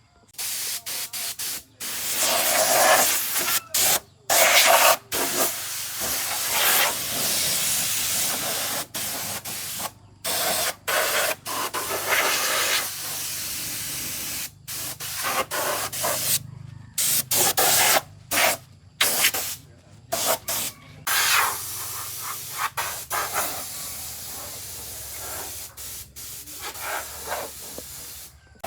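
Pressurized spray hissing in repeated stop-start bursts, each a second or several seconds long, with brief silent gaps between them.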